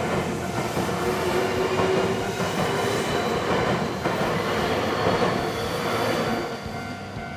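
Nankai Railway train passing over a level crossing, wheels running on the rails, loud and steady, then dropping away about six and a half seconds in as the train clears.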